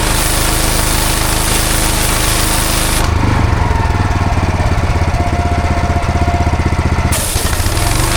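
Engine-driven pressure washer running, its jet hissing on block paving. About three seconds in the spray hiss cuts out, leaving the engine and pump pulsing fast for about four seconds, and the spray hiss comes back near the end.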